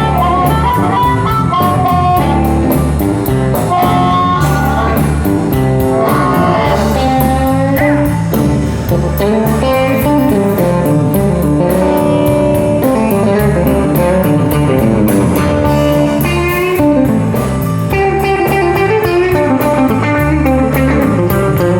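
Live blues band playing an instrumental stretch, with guitar to the fore over bass and drums keeping a steady beat.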